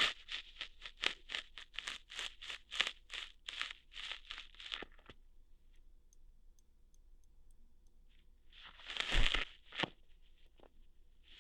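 Close-up ASMR ear-hair plucking: a quick run of short crackly plucking and tearing sounds, about four or five a second, for the first five seconds. After a quiet stretch comes one longer, louder crunchy pluck a little after nine seconds, then a few single clicks.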